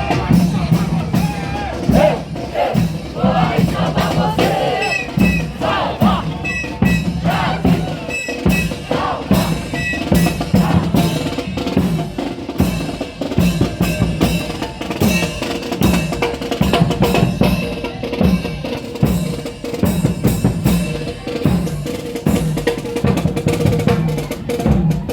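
A parade marching band's drum section playing a steady marching beat, with bass drums and snare drums.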